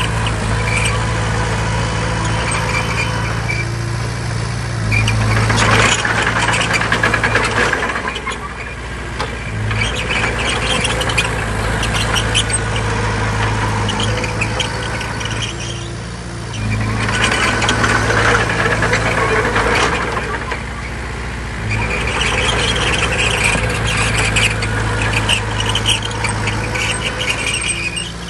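Bulldozer's diesel engine working under load in repeated pushes, with squealing and clanking from its steel tracks. The engine eases off briefly about eight seconds in, again around sixteen seconds and around twenty-one seconds, then picks up again.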